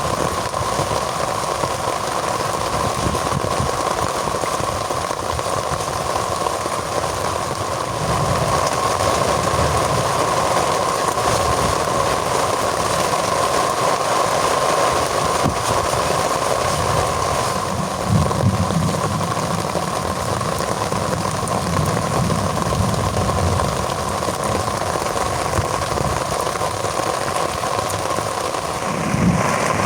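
Heavy rain falling steadily in a storm, with a low rumbling that swells and fades several times.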